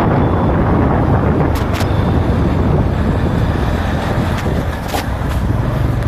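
Runner Bullet 100cc motorcycle's single-cylinder engine running during a ride, with wind rushing over the microphone. A few sharp clicks come through in the middle.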